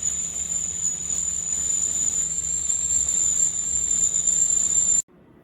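Easyworkz stainless-steel stovetop kettle whistling at the boil: one steady, high-pitched whistle with steam hiss under it, cutting off suddenly near the end.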